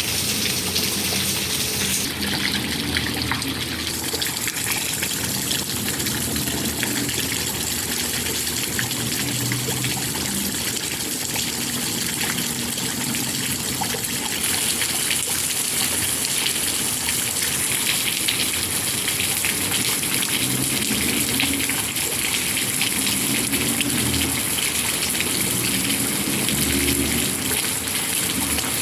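Heavy rain falling steadily, a dense hiss of countless drops with a gushing, pouring quality. It turns a little brighter and hissier about halfway through.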